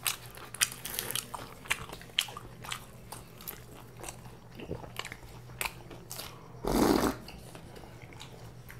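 Close-up chewing and biting of Mughlai paratha, with frequent small crunches and wet mouth clicks. There is one louder, half-second burst of noise about seven seconds in.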